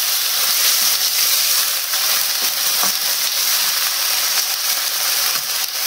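Chopped tomatoes, onion and carrot sizzling in a hot frying pan: a steady sizzle, with a few soft scrapes as a wooden spoon stirs them.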